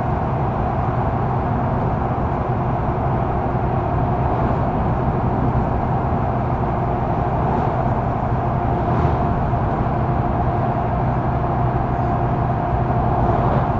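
Mercedes-Benz O530 Citaro GÜ bus heard from inside as it drives at a steady speed: an even drone of diesel engine, drivetrain and road noise, with a low hum and a higher whine held constant throughout.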